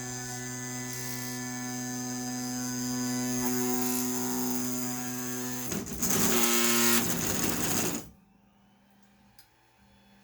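Ender 5 Plus 3D printer's X and Y axis motion: a loud, steady, buzzing whine from the stepper motors and gantry. About six seconds in it turns louder and harsher, then stops abruptly about two seconds later. This loud noise is the fault on the brand-new printer that the owner is trying to trace.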